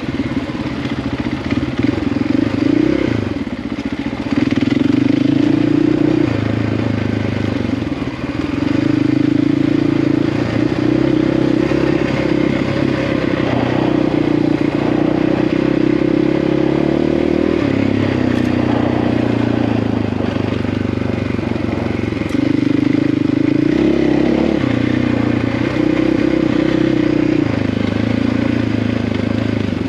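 Big single-cylinder KTM 690-class dual-sport motorcycle engine running under way on a dirt trail. Its pitch steps up and down every few seconds as the throttle opens and closes and the gears change.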